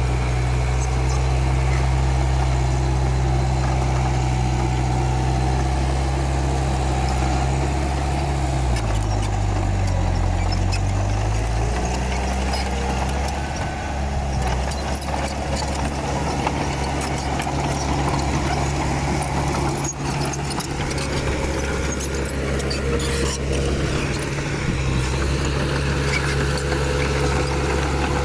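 Komatsu D31P bulldozer's diesel engine running loud and steady. Its pitch drops for a couple of seconds about a third of the way in, then picks back up. Through the second half there are scattered metallic clanks and rattles.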